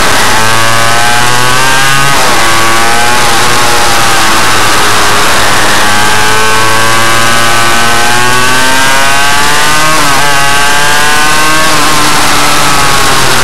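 Suzuki RM 85 two-stroke engine revving hard on a minimotard bike. Its pitch climbs steadily, falls away sharply about two seconds in and again about ten seconds in, then climbs again, with a loud steady hiss over it.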